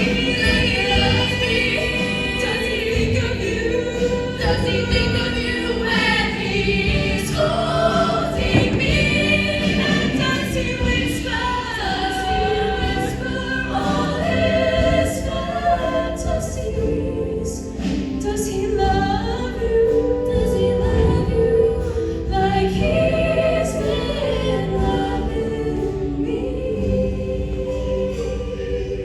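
Show choir singing a number with instrumental accompaniment.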